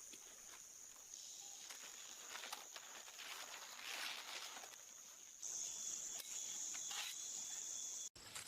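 Rainforest insect chorus: a steady high-pitched buzz with scattered faint clicks. It gets louder about five seconds in and drops out for an instant near the end.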